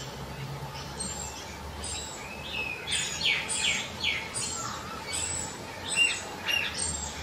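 Wild birds chirping: many short, quick downward-sweeping high notes, busiest from about three seconds in, over a low steady rumble.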